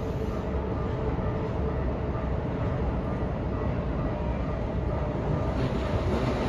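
Keikyu 1500 series 12-car electric train approaching on the tracks: a steady rumble of wheels and motors that grows louder near the end.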